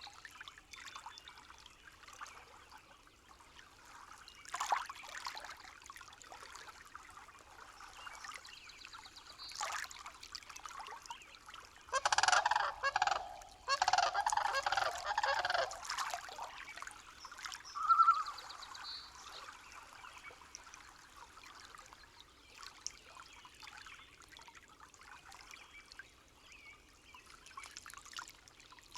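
Bird calls over a faint background of trickling water, in two loud bouts about twelve and fourteen seconds in, then one short call a few seconds later.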